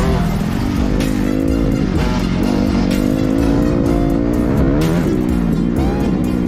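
Motocross bike engine revving hard under changing throttle, its pitch rising and falling repeatedly, dipping about two seconds in and again near the end before climbing back up.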